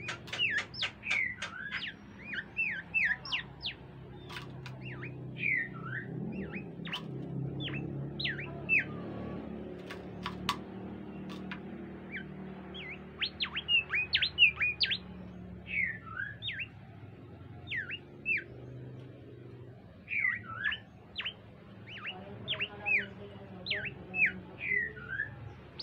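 Bimoli bird singing: bursts of quick, sweeping whistled chirps with short pauses between phrases, over a low background hum.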